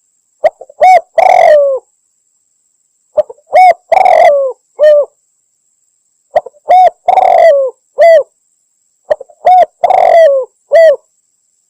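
Female spotted dove cooing, as used in a hunting lure call. It gives four repeated phrases about three seconds apart. Each phrase has a couple of short coos, a longer rough coo, and a falling final note.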